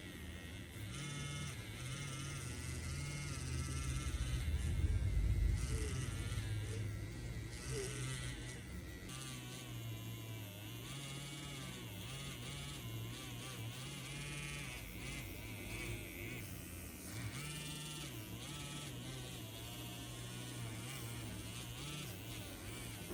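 A small engine running, its pitch rising and falling with the throttle, loudest about five seconds in.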